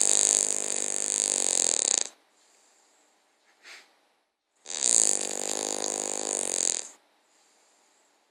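Cavalier King Charles Spaniel snoring in its sleep: two long, buzzing snores, each lasting about two seconds, with a quiet gap of a couple of seconds between them.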